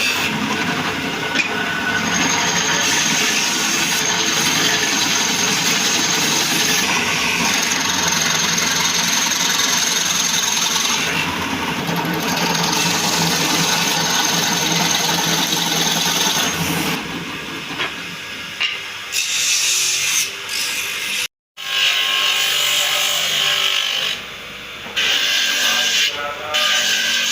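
Power tool working wood, running steadily with a dense rasping noise, then more broken up in its later part, with a brief sudden drop-out about 21 seconds in.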